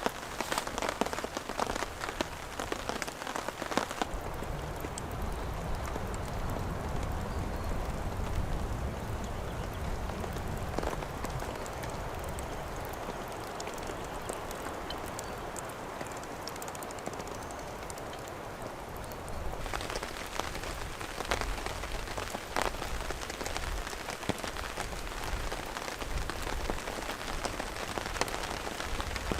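Steady rain, with single drops pattering close by. After about four seconds the sound abruptly turns duller for roughly fifteen seconds: the high hiss drops away and a low rumble comes up. The brighter pattering then returns just as suddenly.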